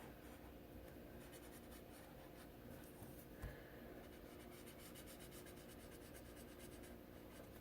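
Faint, rapid back-and-forth scratching of a coloring tool filling in a picture, with one soft knock about three and a half seconds in.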